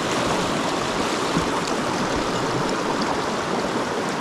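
Mountain stream water rushing and splashing over rocks, a steady, loud flow.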